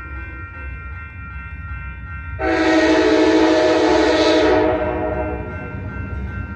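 Amtrak locomotive horn sounding one long blast about two seconds in, held for a little over two seconds and then fading. Under it are the steady rumble of the passing train and the steady ringing of the crossing signal.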